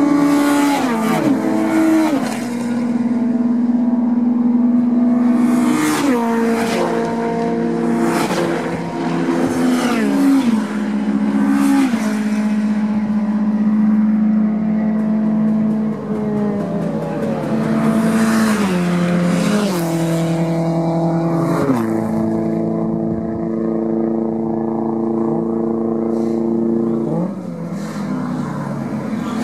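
Touring race car engines working through a corner: revs drop in quick steps several times as the cars downshift under braking, then hold steady on the throttle through the turn.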